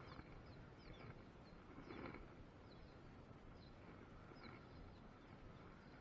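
Near silence: faint outdoor ambience with small birds giving short, high chirps again and again.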